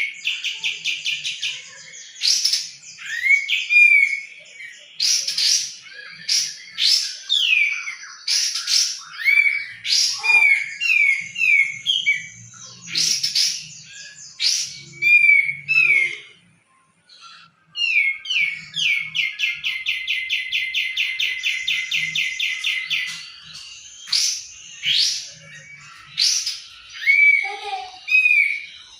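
A songbird singing a long, varied song: slurred whistles, quick upward-sweeping notes and long fast rattling trills of evenly repeated notes, with a short pause about two-thirds of the way through. The song is so mixed that it can be taken for either a kapas tembak or a cucak jenggot (grey-cheeked bulbul).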